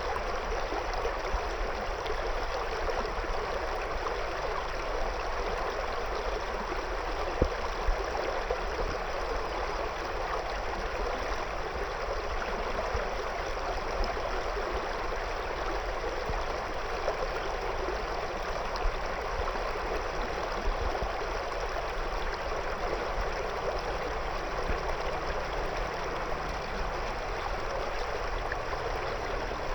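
A shallow river running over and around stones: steady, even rushing water, with a few brief sharper spikes about seven and eight seconds in.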